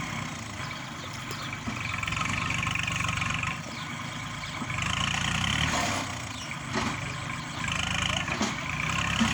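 Kubota tractor's diesel engine running and working, its pitch and load rising and easing several times, with a higher whine that comes and goes.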